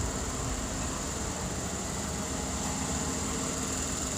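Steady low vehicle rumble with a constant high-pitched hiss over it.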